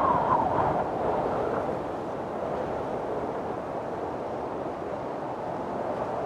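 Windstorm: strong wind blowing, swelling louder in the first second or so, then settling to a steady rush.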